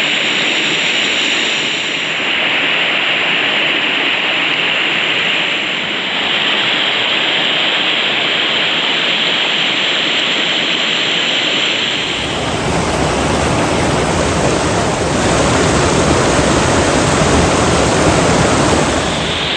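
Mountain waterfall rushing steadily. About twelve seconds in, the sound switches abruptly to a fuller, deeper and slightly louder rush of falling water.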